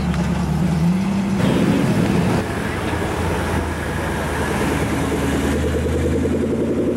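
A Shelby Cobra replica roadster's engine rumbles as it pulls away, its pitch stepping up about a second in. Then a black Ford Mustang's engine runs at low revs as it rolls slowly past, revving higher near the end.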